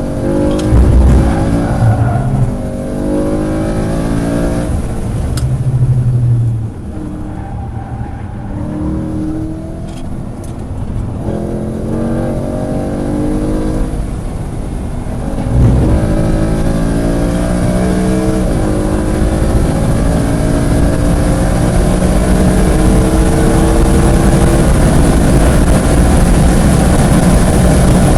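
Track car's engine under hard driving: it pulls up through the gears, drops off around six seconds in as the driver lifts and slows for a corner with the revs falling and stepping down, then goes back to full throttle about fifteen seconds in and pulls hard through further upshifts to the end.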